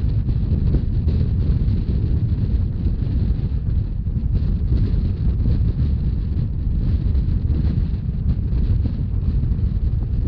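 Rhaetian Railway narrow-gauge train running steadily, a continuous low rumble with wind buffeting the microphone.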